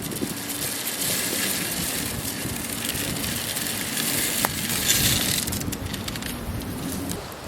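Pickup truck engine running under load while it hauls a log through a pulley-and-cable rig. From about a second in to about five and a half seconds, a loud scraping hiss of the log dragging over the ground joins the engine, with one sharp click near the end of it.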